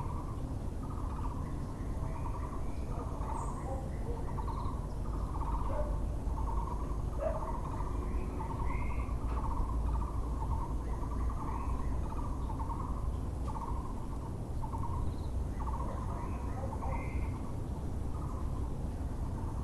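Muller's barbet (Taiwan barbet) calling, a steady run of repeated low notes, with short chirps of other birds above it and a low background rumble.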